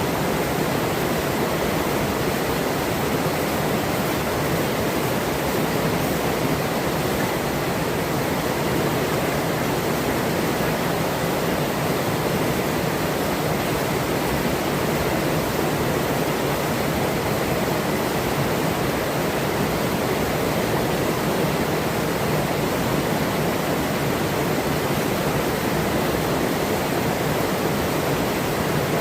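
Steady rush of a forest river's flowing water, an even noise that does not change.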